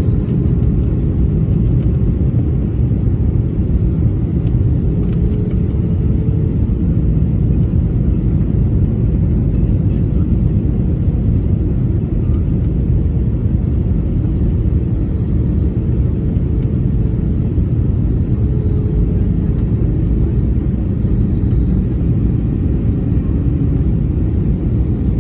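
Steady low rumble of an airliner's engines and rushing air, with a faint steady hum on top.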